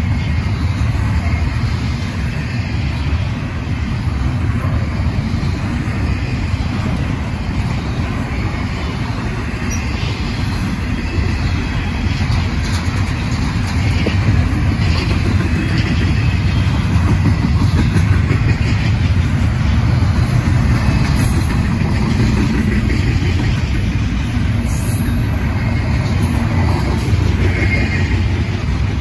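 Freight train cars rolling past on the rails, a steady heavy rumble.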